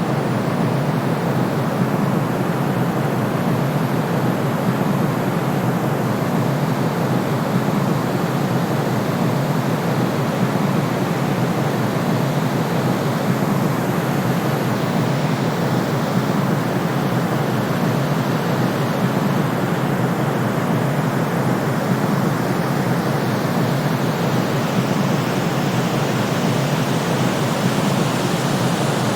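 Steady, unbroken white-noise track for sleep: an even rushing hiss, weighted toward the low range and softer in the highs, with no changes or breaks.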